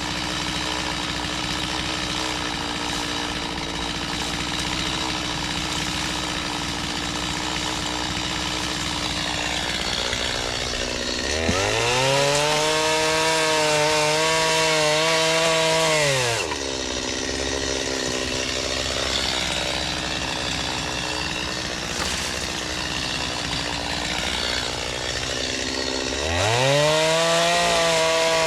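Chainsaw idling, then revved up to full speed and held there for about five seconds while cutting crepe myrtle wood. It drops back to idle, then revs up again near the end.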